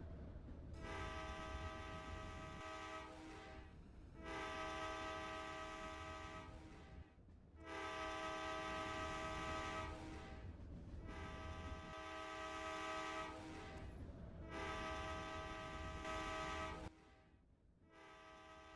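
Train horn sounding a chord of several notes in repeated long blasts, each about two and a half seconds with a short break between, five in all and a sixth starting near the end.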